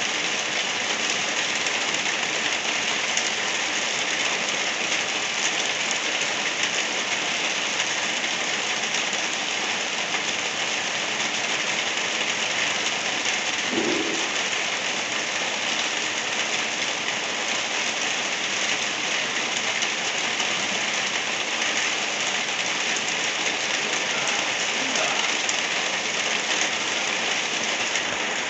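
Steady rain falling, an even hiss that does not change. A brief faint low sound comes through about halfway.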